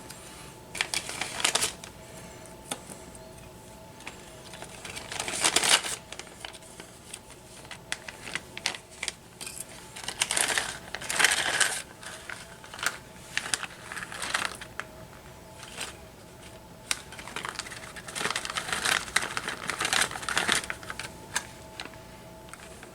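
Small tools and parts being handled on a workbench during a drone frame repair: irregular clicks, taps and short bouts of rustling, in several clusters, over a faint steady hum.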